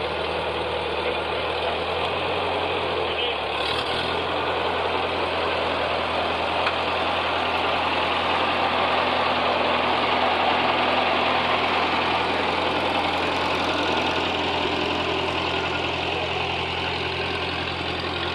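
A tractor engine idling steadily, growing slightly louder in the middle, with a faint click about four seconds in.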